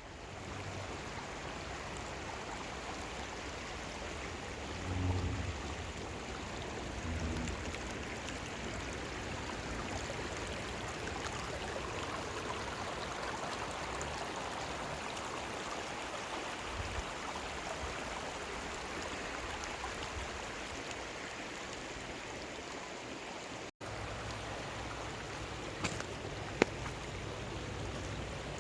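Small mountain creek running over rocks, a steady rush of flowing water. Two short low rumbles come about five and seven seconds in, and a sharp click near the end.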